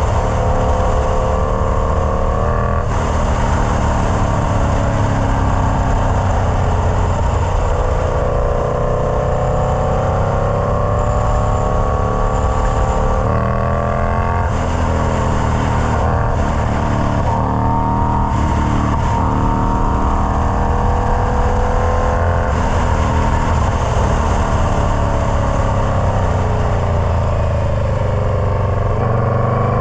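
Indian Scout Bobber's V-twin running through a Freedom Performance Combat 2-into-1 exhaust. The engine is under way and pulling: its pitch climbs steadily, then drops back several times, as at gear changes, before climbing again.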